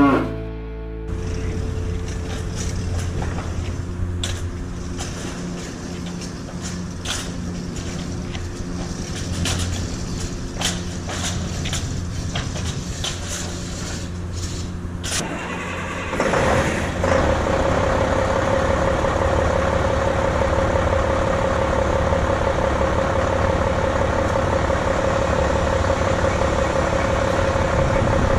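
A vehicle engine starts a little past halfway and then runs steadily with a constant hum. Before it starts there is a lower steady rumble with scattered clicks.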